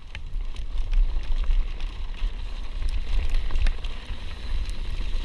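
A steady low rumble with scattered small clicks and rattles, like wind buffeting a camera microphone during a ride; no engine note can be made out.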